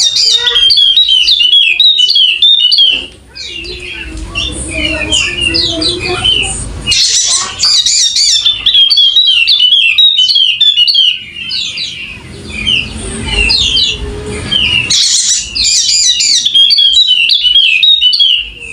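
Yellow-spectacled white-eye (pleci Wallacea) singing in three long bursts of rapid, high chattering warbles, with short pauses between them.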